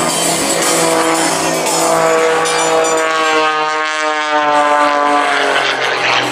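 Aerobatic propeller plane's engine and propeller going by in flight. The note rises in pitch for a couple of seconds and then falls away.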